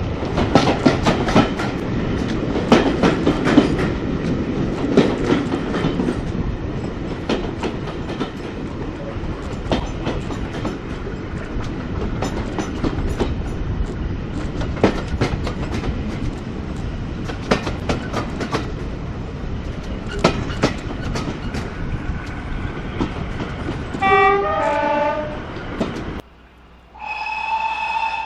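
A heritage train running, with wheels clattering over the rail joints and a steady rumble. Near the end a locomotive sounds a brief pitched call that steps in pitch. After a sudden break it sounds one steady note.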